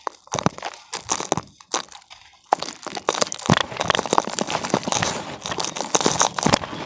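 Damp cement crumbling as it is crushed: separate crunches at first, then from about two and a half seconds in a dense, continuous run of gritty crumbling.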